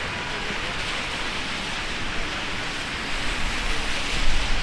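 Heavy rain falling, a steady hiss, with gusty wind buffeting the microphone and the sound growing louder over the last second or so.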